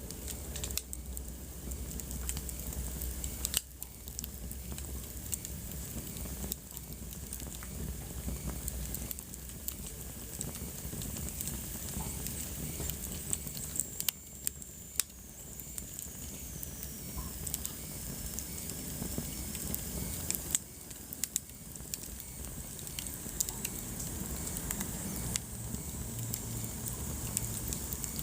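Wood fire burning in a fireplace, crackling steadily with frequent sharp pops over a soft hiss. Around the middle, a faint high whistle slides slowly down in pitch, like gas or steam escaping from the burning wood.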